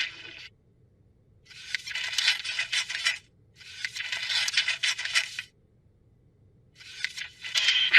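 Cartoon sound effect of scraping and rattling, in three bursts of about one and a half to two seconds with short silences between, the last starting near the end.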